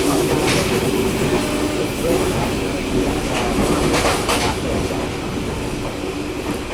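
Passenger train running along the track, heard from inside the coach: a steady rumble with a few sharp clacks of the wheels over the rail joints.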